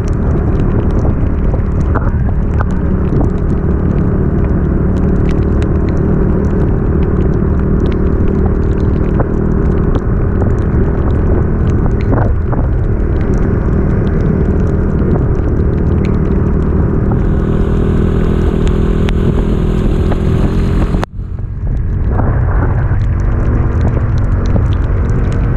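Motorcycle engine running steadily under load while climbing, with heavy wind rumble on the microphone. The sound cuts out abruptly for a split second late on, then carries on as before.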